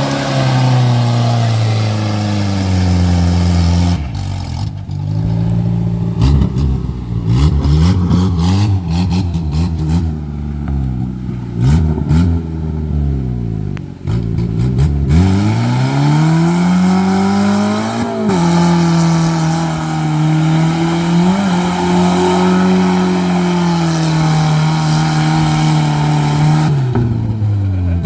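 Suzuki Escudo ute's engine revving hard during skids. A run of quick rises and drops comes with sharp clicks, then the revs climb and hold high for several seconds before falling away near the end.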